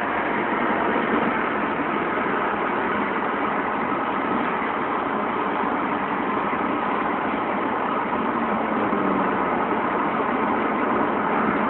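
Steady road noise of traffic at freeway speed: tyres and engines running together in an even drone with no sudden changes.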